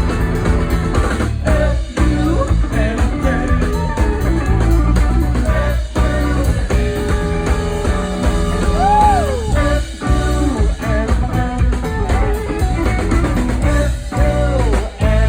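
Live rock band playing loudly: electric guitar over bass and drum kit, with heavy low end and some sliding guitar notes.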